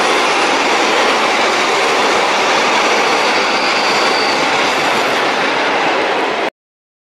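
A train passing at speed on the near track: a steady, loud rush of wheels on the rails. It cuts off abruptly to silence about six and a half seconds in.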